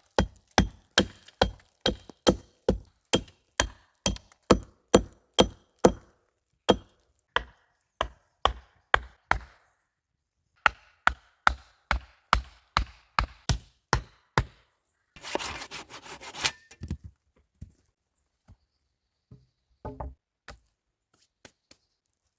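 A tool striking wood over and over, about two blows a second, in two runs with a pause between. Near the end there is a brief scraping rustle, then a few light knocks.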